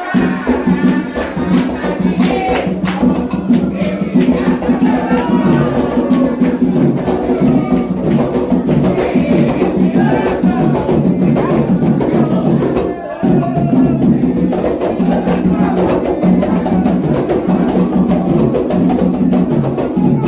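Candomblé atabaque drums and a metal agogô bell playing a steady toque for Oxossi, with a brief drop about two-thirds of the way through.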